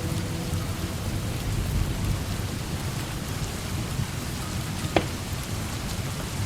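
Steady heavy rain with a low rumble underneath, and a single sharp pop about five seconds in.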